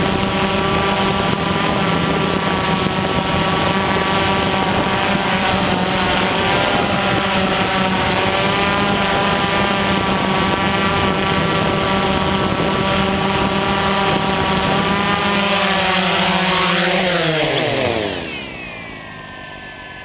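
DJI Phantom quadcopter's propellers humming steadily, then winding down in pitch and fading near the end as the motors spin down.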